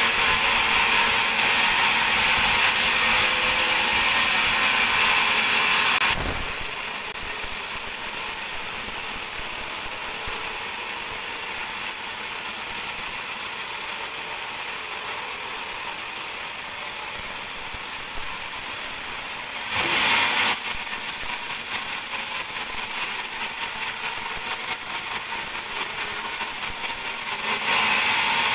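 Band sawmill sawing a teak log into boards. The blade cutting is loud for about six seconds, then the mill runs more quietly, with a short louder burst around twenty seconds in and the loud cutting starting again near the end.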